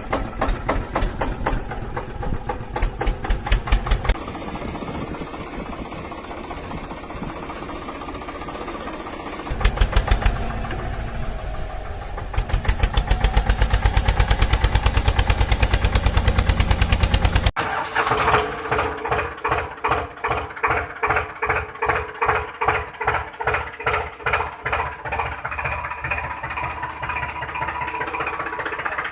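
Tractor engine running with an even beat of pulses, cutting abruptly to a different-pitched engine run several times, like spliced sound clips.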